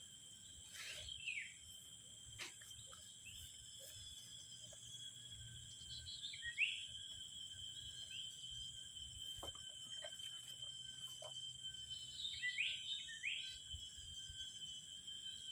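Birds giving short, falling chirps several times over a steady, high-pitched insect drone, with a few faint clicks.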